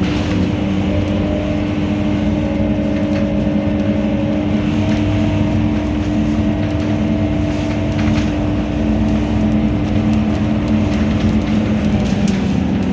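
Scania K230UB single-deck bus running at a steady speed, its engine and drivetrain giving a level, unchanging hum, with a few light clicks over it.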